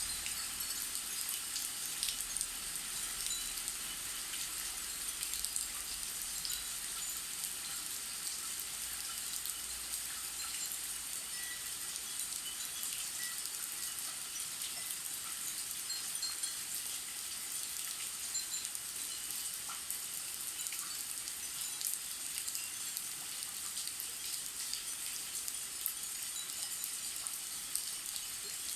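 Steady rain falling, with Japanese furin wind chimes tinkling faintly now and then through the patter.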